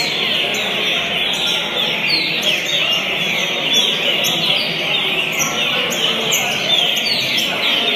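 Songbirds singing, a steady unbroken stream of quick downward-sweeping chirps.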